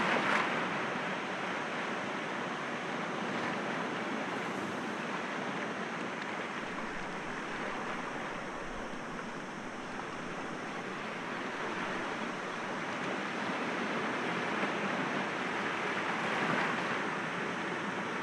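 Sea waves breaking gently against rocks: a continuous wash of surf that swells at the start and again near the end, easing off a little in the middle.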